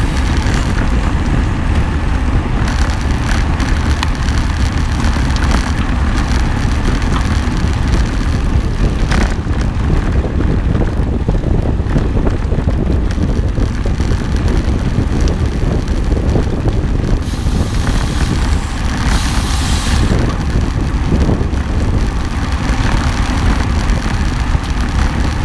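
Steady, loud rumble of a vehicle on the move, with wind buffeting the microphone.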